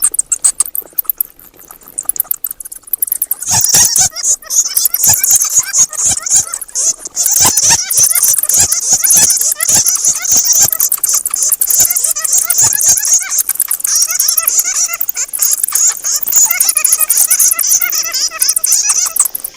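Bats chattering: rapid high-pitched squeaks and clicks, thinner for the first few seconds, then dense and continuous.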